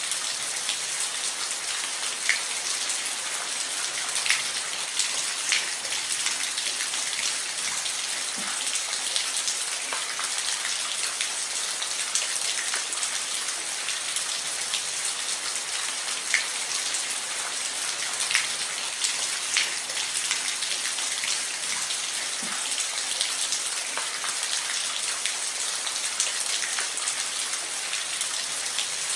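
Steady rain falling on a roof: an even hiss with scattered sharper drop hits.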